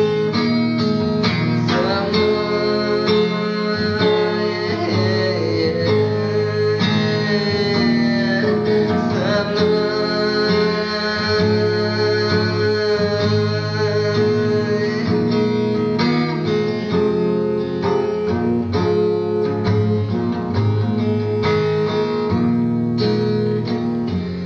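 Rock band music: an instrumental passage between sung verses, with guitar and a melodic lead line over a steady bass and chords.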